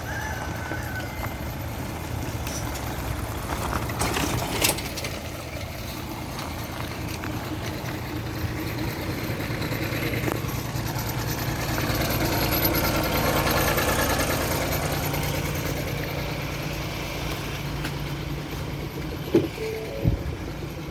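A heavy diesel engine running steadily, growing louder for a few seconds past the middle and then settling again. There is a brief sharp noise about four seconds in and a few knocks near the end.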